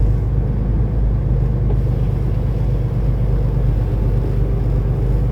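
Semi truck's diesel engine running with a steady, even drone.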